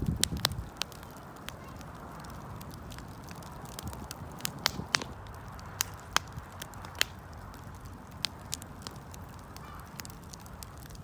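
Wood fire burning: a steady low rush of flame with sharp, irregular crackles and pops of burning wood, a cluster of pops in the first half-second.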